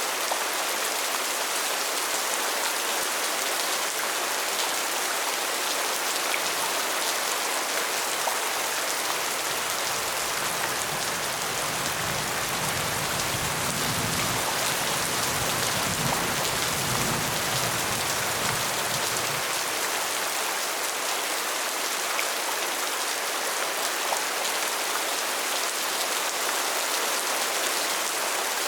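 Steady, dense rain falling. A low rumble swells underneath for about ten seconds in the middle and then fades.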